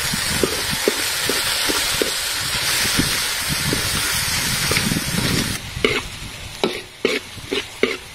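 Chopped garlic, sliced onion and a brown sauce paste sizzling in a hot oiled pan while a metal ladle stirs and scrapes them. The sizzle falls away about five and a half seconds in, leaving sharp clicks of the ladle against the pan.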